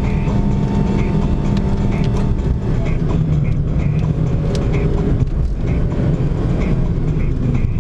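Car engine and tyre noise from inside the cabin while driving, a steady low rumble sped up by double-speed playback.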